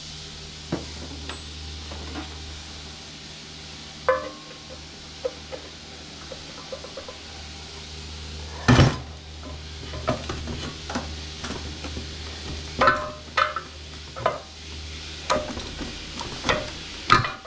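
Metal hand tools clinking and knocking against the metal parts of a mower's blower fan assembly: scattered sharp clanks, the loudest about halfway through and coming more often toward the end, over a steady low hum.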